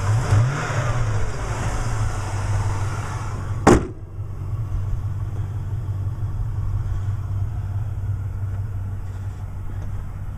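Impala SS V8 idling, its pitch briefly rising just after the start. About four seconds in a single sharp slam, the hood shutting, after which the idle goes on more muffled.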